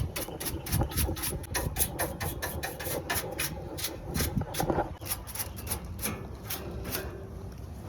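Quick, repeated scrubbing strokes, about four a second, keeping an even pace throughout.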